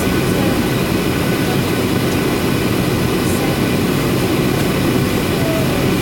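Boeing 737-800's CFM56-7B jet engines running with a steady, even drone, strong in the low range, with a few faint steady tones above it.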